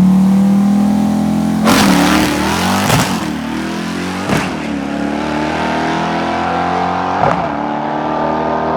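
Car engine running steadily, with four sharp pops or cracks over it, one to three seconds apart.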